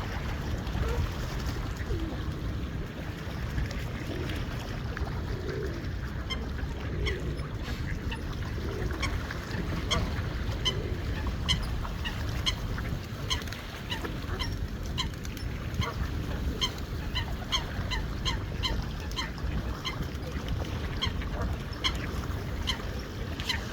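Geese and ducks calling: a few low calls at first, then from about six seconds in a long run of short, quick honks repeating two or three times a second, over a steady low rumble.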